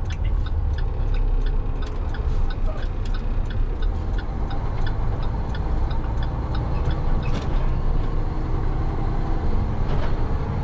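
Road noise inside a moving vehicle's cab: a steady low rumble with frequent small clicks and rattles over it.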